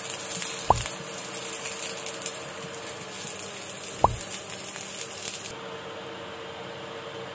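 Onion slices sizzling and crackling in hot oil in a nonstick frying pan as they are stirred, with two sharp knocks, about a second in and about four seconds in. The crackling stops about five and a half seconds in, leaving a quieter steady hiss under a faint hum.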